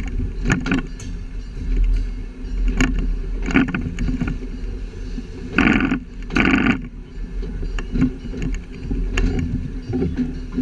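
A short train running: a steady low rumble with frequent clicks and knocks, and two loud short bursts close together about six seconds in.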